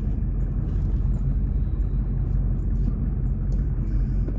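Dad's truck running, heard from inside the cab: a steady low rumble of engine and road noise that does not change.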